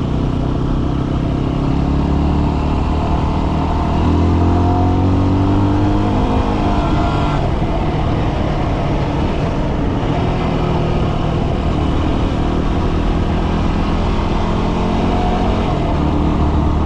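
Dual-sport motorcycle engine running under way, its pitch rising as it accelerates a few seconds in, then holding fairly steady.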